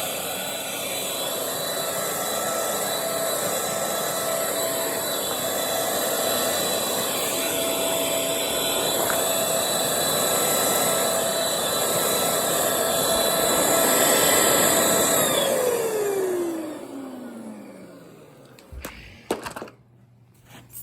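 Bissell Featherweight stick vacuum (model 20334, two-amp motor) running steadily with a high whine, then switched off about three-quarters of the way through, the whine falling in pitch as the motor spins down. A few sharp clicks follow near the end.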